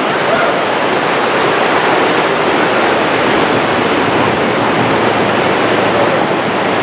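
River whitewater rushing around the raft, a loud, steady wash of water noise.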